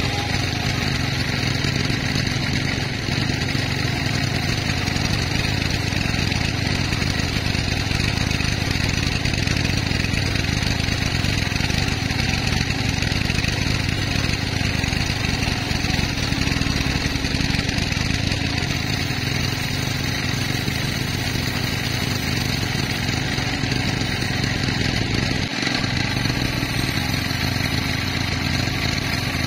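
Sawmill machinery running steadily, an unbroken engine-like drone.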